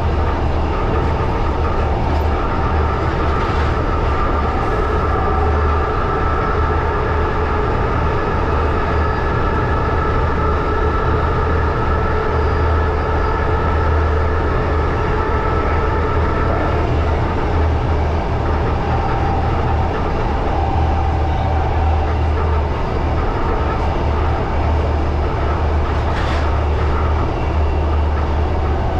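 1938 Tube Stock train running along the line, a steady low rumble of wheels and running gear with a high whine that holds for roughly the first half and then fades away. A single short click comes near the end.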